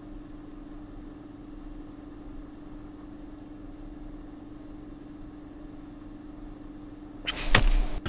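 Steady low hum of room noise, then near the end a loud, sudden burst of noise lasting under a second as a sleeping man jerks awake.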